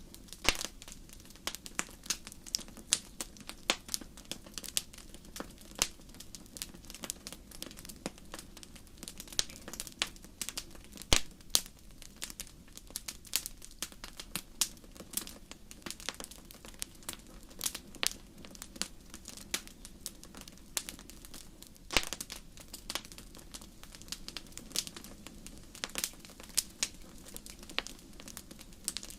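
Fireplace fire crackling, with many irregular sharp pops and snaps over a low steady rumble; two louder pops stand out, about 11 and 22 seconds in.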